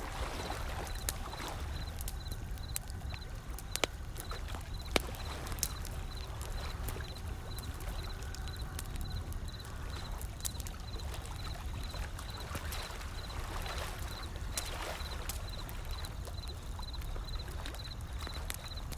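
Wood fire crackling with scattered sharp pops, the loudest about four and five seconds in, over a steady low rumble of ocean waves that swell and wash in now and then.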